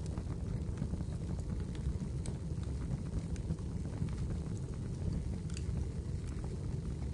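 Wood fire burning in a fireplace: a steady low rumble with scattered small, sharp crackles and pops.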